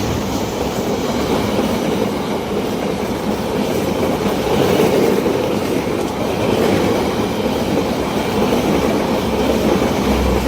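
A long train passing close at speed, its wheels running over the rails in a steady, loud clatter that eases off just after the end.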